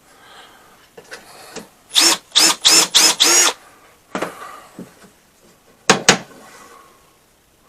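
A power drill run in four quick bursts, its motor whine rising and falling in pitch each time, as it bores holes in wood through a drilling jig. A weaker burst follows, then two sharp clicks.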